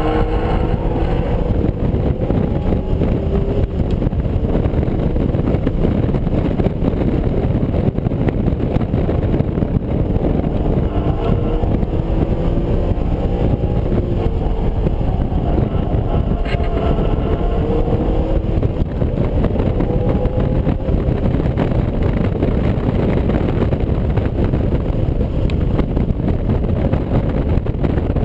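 BMW Z4 M Coupe's 3.2-litre straight-six heard from inside the cabin under hard track driving. Its note rises and falls repeatedly as it accelerates and lifts, over loud road and wind noise.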